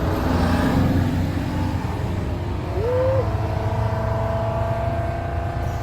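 Straight-piped Cummins C8.3 inline-six turbo diesel of a 1995 Carpenter school bus pulling under power, heard from inside the bus: a loud, throaty, unmuffled exhaust note. A steady whine joins it from about halfway through.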